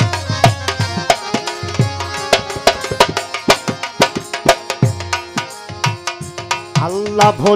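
Instrumental interlude of a qawwali: tabla playing a quick steady rhythm, the low drum's pitch bending after strokes, over held chords. A singing voice comes in near the end.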